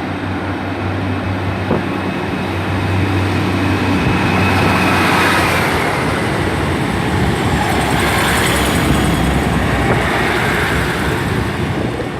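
Class 153 diesel multiple unit running with its diesel engine humming steadily, growing louder about four seconds in as the train moves along the platform, with wheel and rail noise.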